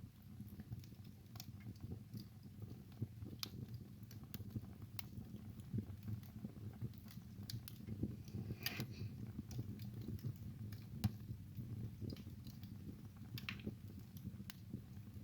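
Wood burning in a fireplace: irregular sharp crackles and pops over a steady low rumble, with a few louder pops now and then.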